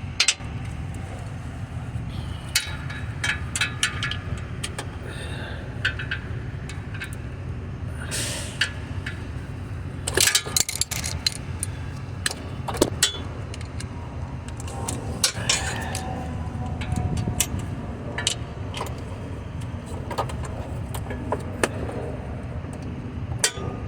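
Ratchet and socket clicking and metal tools clinking in short bursts while a starter mounting bolt is loosened, over a steady low hum.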